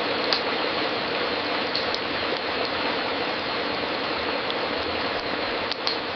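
Wood fire crackling in a fireplace: a steady hiss with scattered sharp pops and snaps.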